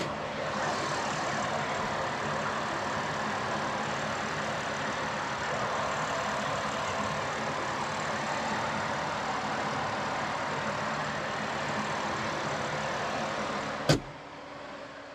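BMW X3 M40i's 3.0-litre twin-turbo inline-six idling steadily with the hood up. Near the end a single loud thud as the hood is shut, after which the engine sounds much quieter.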